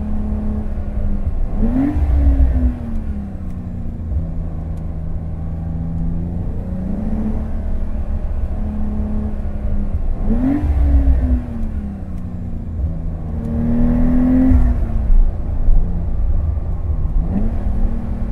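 Porsche 911 Carrera T's 3.0-litre twin-turbo flat-six engine and exhaust under way: it revs up sharply three times, about 2, 10 and 17 seconds in, each time easing back down. Between the rises it holds steady, settling a step lower in pitch from time to time, as through gear changes.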